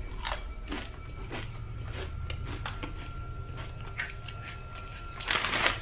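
A person eating crunchy ghost pepper chips: scattered crunching and mouth clicks, then a sharp hissing breath near the end from the burning heat.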